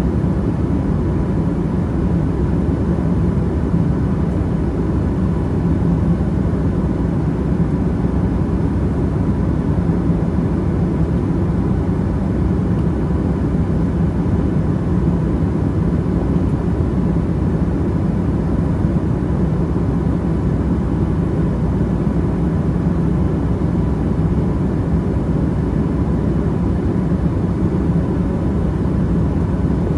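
Steady engine and airflow noise inside the economy cabin of a Boeing 757-200 airliner, heaviest in the low range, with a faint steady tone above it.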